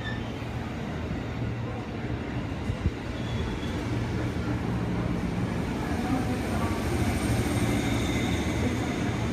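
JR 211 series electric train running slowly past close by, a steady low rumble of wheels and motors with one sharp knock about three seconds in. A thin high whine joins in over the last few seconds.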